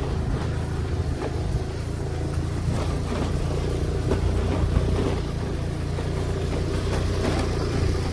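Car driving along, its engine and road noise making a steady low rumble that cuts off abruptly at the very end.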